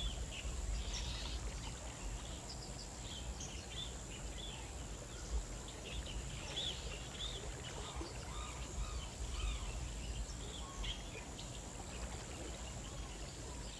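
Faint outdoor ambience: scattered short bird chirps over a low steady rumble and hiss.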